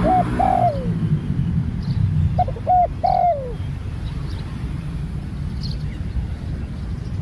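Spotted dove cooing twice, each phrase three notes with the last one drawn out and falling in pitch, over a steady low rumble.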